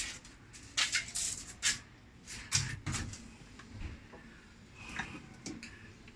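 Scattered short knocks, clicks and scrapes of hand tools and machine parts being handled while a top-load washing machine is taken apart.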